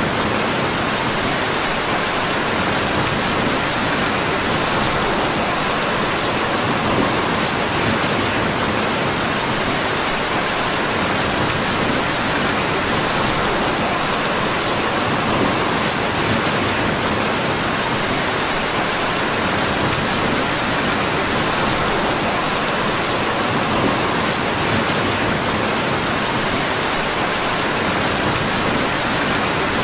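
Steady rain, an even unbroken hiss, with faint scattered ticks among it.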